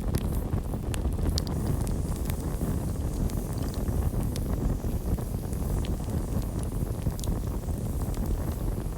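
Campfire burning with a steady low rumble and scattered sharp crackles and pops of burning wood; crickets chirp faintly in the background.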